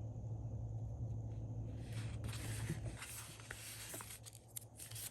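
Paper and sticker sheets being handled: soft rustling with scattered small clicks and taps, starting about two seconds in, over a steady low electrical hum.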